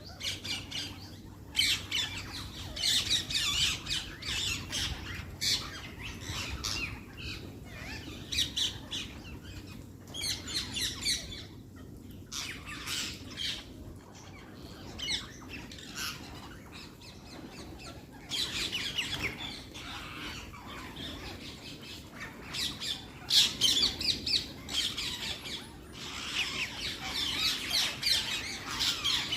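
A parrot squawking in bouts of rapid, repeated short calls, with pauses of a second or two between bouts.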